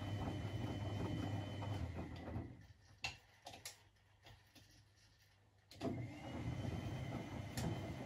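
Privileg 3001 S (Zanussi) washing machine's gear motor turning the drum. It winds down about two and a half seconds in, gives a couple of sharp clicks during a short pause, then starts up again with a brief rising whine. This is the stop-and-restart rhythm of a wash cycle.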